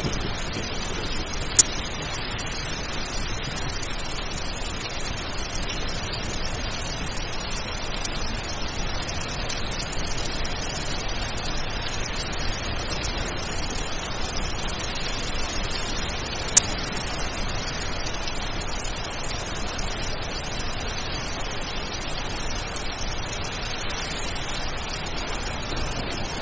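Steady heavy rain falling in a constant hiss, with a couple of sharp ticks, one near the start and one about two-thirds of the way in.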